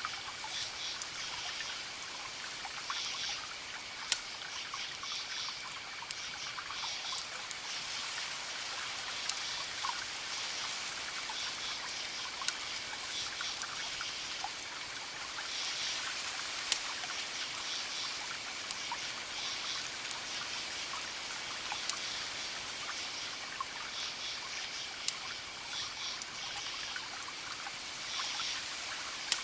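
Campfire crackling, with scattered sharp pops among a steady hiss, under crickets: one steady high trill and groups of short pulsed chirps that come and go.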